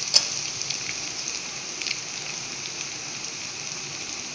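Potato and semolina fingers frying in hot coconut oil in a pan: a steady sizzle with scattered crackling pops, one sharper pop just after the start.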